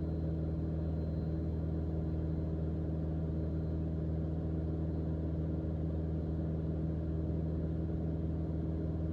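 Mooney M20J's four-cylinder Lycoming IO-360 engine and propeller droning steadily at cruise power, heard from inside the cockpit: an even, unchanging hum with a low fundamental and its overtones.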